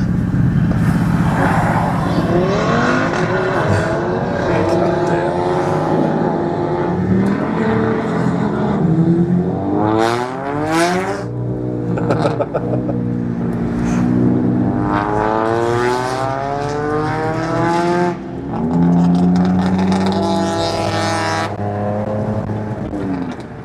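Loud car engine sound, revving and accelerating, the pitch climbing and dropping several times.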